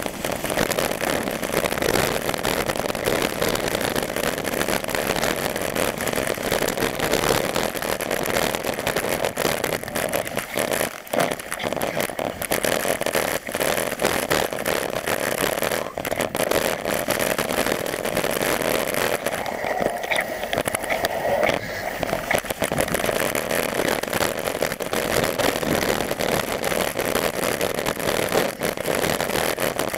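Steady rushing noise of wind and road while riding a bike, with the wind buffeting the microphone so the level flutters throughout.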